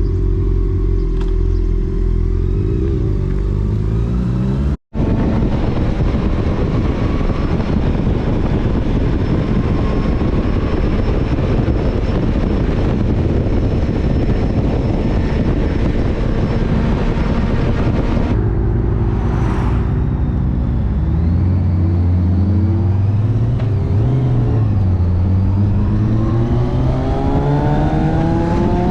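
Motorcycle engine running steadily, then a brief cut-out a few seconds in. After that comes riding at speed, with a dense rush of wind and road noise over the engine. Later the engine note comes through again and rises repeatedly near the end as the bike accelerates.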